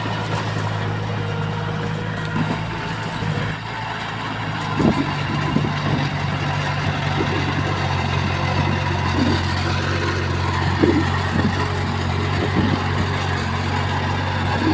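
Diesel engine of heavy construction machinery running steadily. About five seconds in, the engine note shifts and irregular clanks and rattles begin.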